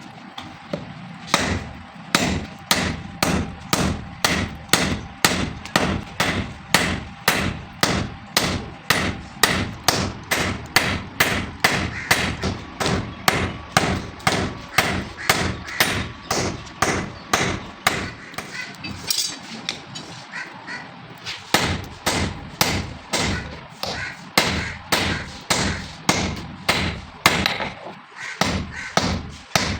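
Hand hammer striking steel on an anvil, forging, in a steady rhythm of about two blows a second, with a short lull partway through.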